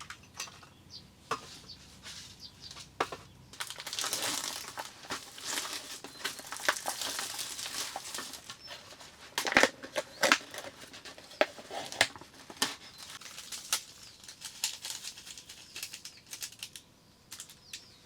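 Rustling and crinkling of handled material with many scattered clicks, a busier spell of rustling in the first half, and two louder knocks about nine and ten seconds in.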